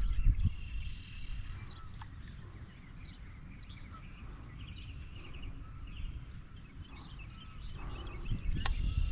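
Wind buffeting the microphone in gusts, stronger at the start and near the end, with birds chirping faintly in the background and one sharp click near the end.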